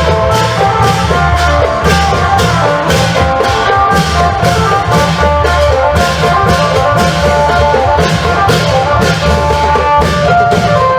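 Isan klong yao long-drum band playing with an amplified phin (Isan lute): a fast, steady drumbeat under a plucked melody with a heavy low bass.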